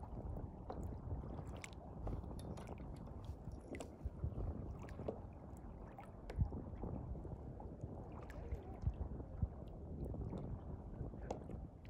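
Wind buffeting the microphone and water noise aboard a boat at sea: a steady, uneven low rumble with scattered short clicks and splashes.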